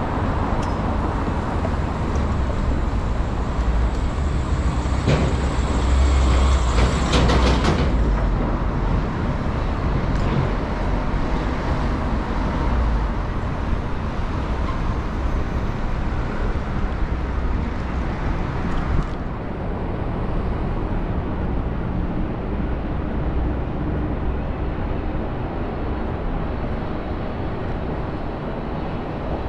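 Road traffic heard from a moving scooter on city streets: a continuous noisy wash of vehicles over a strong low rumble. It grows louder for a few seconds about five to eight seconds in, with some sharp clatter.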